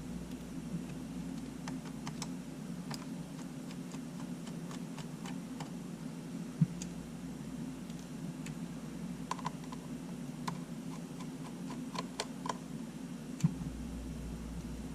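Scattered light clicks and ticks of small tools and parts being handled during disassembly of a Sony A7 camera, with two sharper clicks about halfway through and near the end, over a steady low hum.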